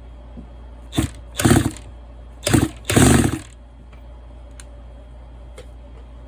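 Air impact wrench rattling in four short trigger bursts, one brief and three longer, on the clutch of a kit chainsaw to snug it onto the crankshaft. A few faint ticks follow.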